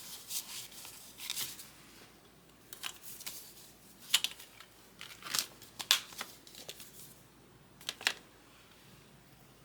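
Paper banknotes and cash envelopes being handled: a series of short, crisp rustles, roughly one every second, with quiet stretches between.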